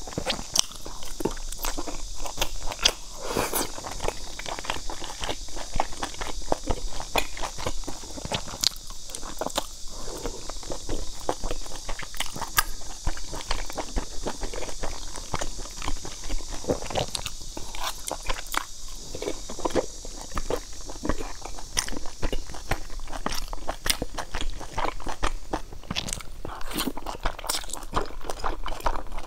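Close-miked chewing and biting of chewy chili-coated pork strips: wet smacking and many small irregular clicks, over a steady hiss.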